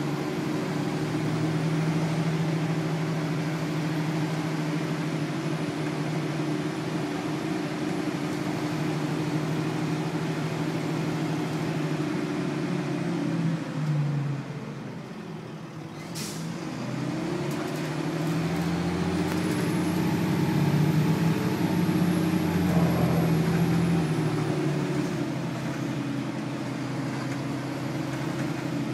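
Detroit Diesel Series 40 engine of a 2000 Nova Bus LFS city bus heard from inside while under way. About halfway through it drops back, and a brief sharp hiss of air follows. The engine then picks up again, its pitch rising as the bus accelerates, before settling to a steady run.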